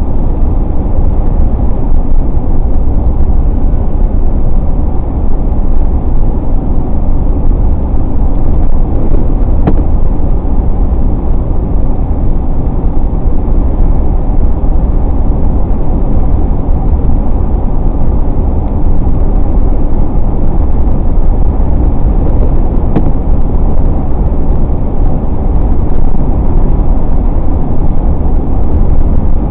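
Steady low road rumble of a car driving on the highway in the rain, heard from inside: tyre, engine and wind noise, with two faint ticks, about ten and twenty-three seconds in.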